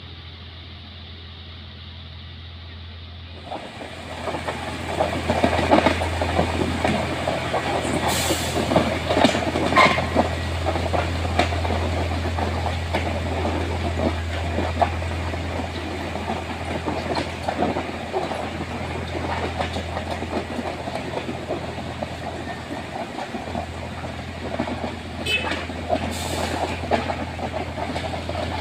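A train running along the track, wheels clattering over the rails with a steady low engine drone underneath. The clatter comes up sharply about three and a half seconds in and stays loud, with scattered knocks and clicks.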